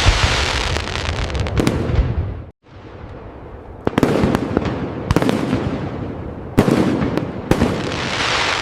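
Fireworks display: aerial shells bursting with dense crackling, which cuts briefly to silence a little after two seconds in. Four sharp bangs follow over the crackle, and the crackling swells again near the end.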